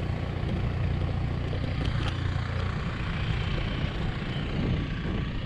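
Steady low rumble of wind buffeting the microphone while riding a bicycle, with road noise from the tyres.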